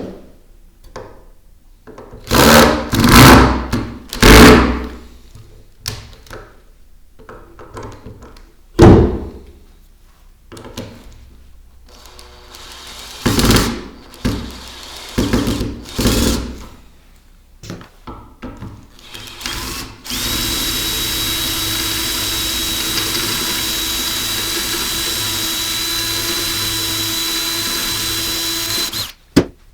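Electric power tool run in several short loud bursts, then run without stopping for about nine seconds with a steady high whine before cutting off suddenly.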